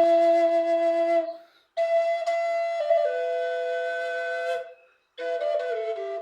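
A flute playing a slow melody of held notes that step between pitches, in phrases broken by two short breath pauses, about a second and a half in and again near the end.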